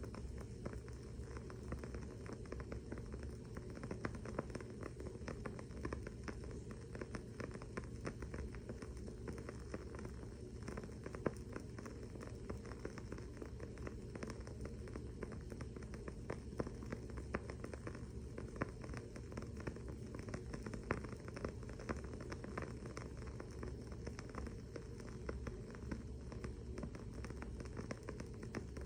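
Wooden-wick candle burning with dense, irregular crackling: many small quick pops and a few louder snaps, the loudest about eleven seconds in, over a faint steady low hum.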